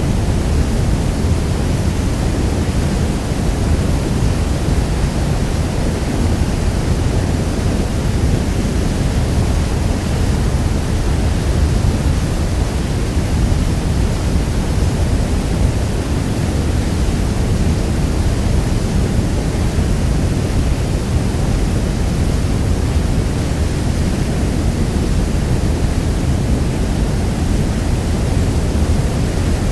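Niagara Falls' water pouring down, heard as a steady, even rushing noise that is heaviest in the low end and does not change.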